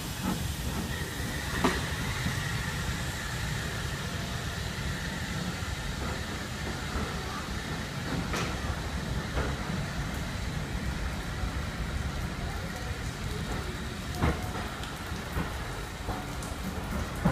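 Passenger carriage of a steam-hauled heritage train rolling slowly into a station: a steady low rumble of wheels on rail, with a few single knocks from rail joints.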